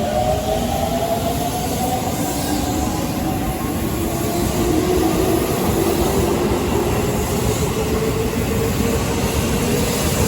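Chiba New Town Railway 9100-series electric train pulling away: the whine of its traction motors rises slowly in pitch as it gathers speed, over a steady running rumble.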